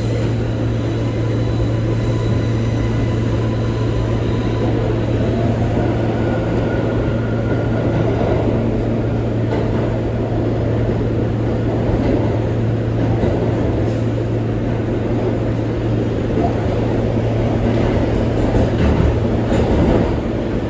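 An R143 subway car running along the track: a steady rumble of wheels on rail over a constant low hum, with a faint whine in the first few seconds.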